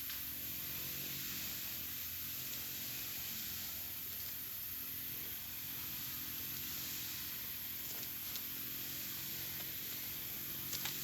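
Steady high-pitched hiss, with a few faint clicks toward the end.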